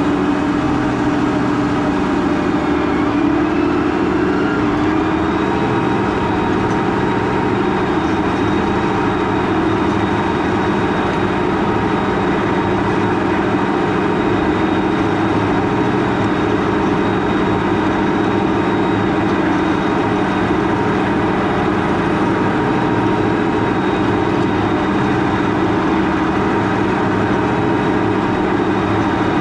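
Large farm tractor engine running steadily, with its pitch rising slightly a few seconds in and then holding.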